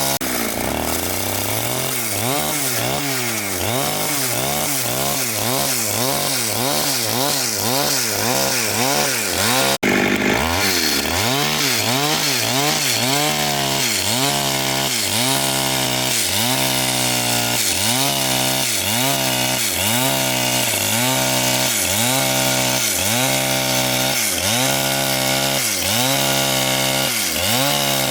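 Chainsaw engine running under load while cutting wood, its pitch rising and falling about twice a second. There is a brief break about ten seconds in.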